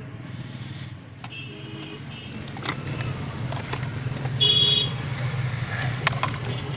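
A car engine idling steadily, with a few scattered clicks and a short, high horn-like toot about four and a half seconds in.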